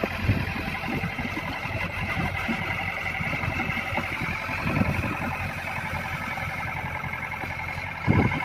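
Hitachi hydraulic excavator's diesel engine running steadily, with irregular low knocks and thuds.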